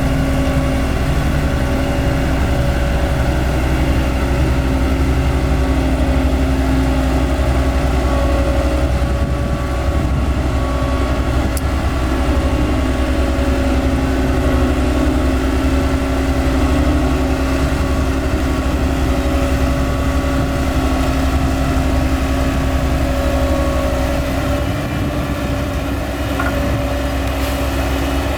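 Diesel engine of heavy earth-moving machinery running steadily at an even speed, a low, unchanging engine drone.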